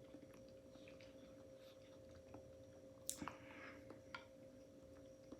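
Near silence with faint chewing and small wet mouth clicks from eating, and one sharper wet smack about three seconds in.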